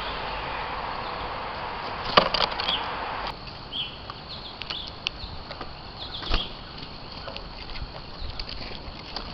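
Small birds at a bird camera: scattered sharp taps and a few short, high chirps over a steady hiss that drops off suddenly about three seconds in.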